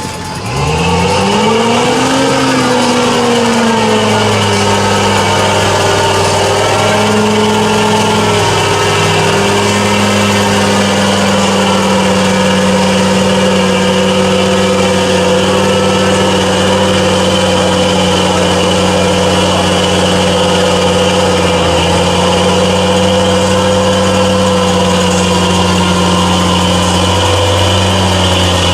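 A mud truck's engine revs up and down in the first few seconds, then runs on at steady revs, with brief small dips twice near the end.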